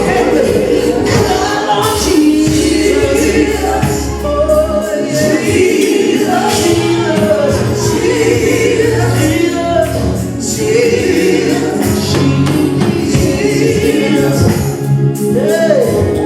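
Live gospel music: a choir singing over a band, with a tambourine.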